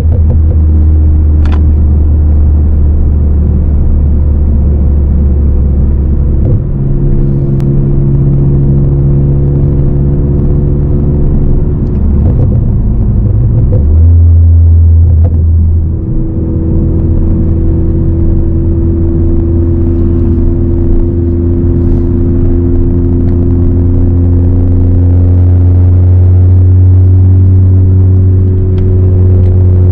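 Ford Focus ST's turbocharged 2.0-litre four-cylinder running through an aftermarket exhaust while driving, with a steady low drone. The engine note shifts twice in the first half, then rises slowly through the rest.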